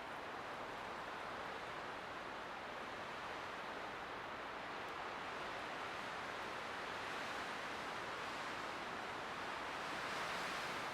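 Light wind blowing as a steady soft hiss that swells gently, strongest near the end.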